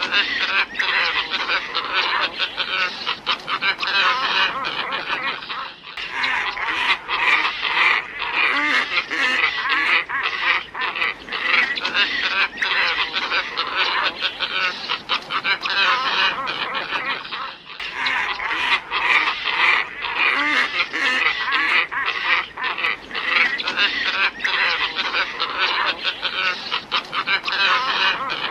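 A flock of glossy ibises calling in a dense, continuous chorus of overlapping calls. The chorus breaks off and restarts abruptly twice, about 6 and 18 seconds in.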